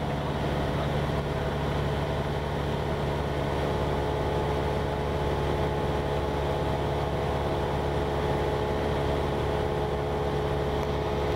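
Cessna 172's piston engine running steadily, a constant drone with a low hum and a few steady tones above it, heard in the cockpit.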